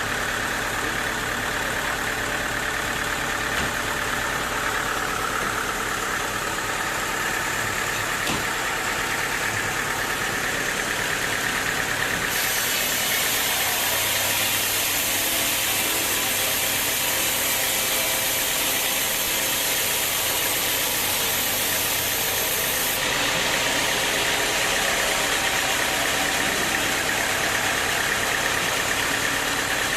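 Sawmill machinery running steadily with an engine-like drone; from about twelve seconds in to about twenty-three seconds a bright, high hiss joins it, then drops away.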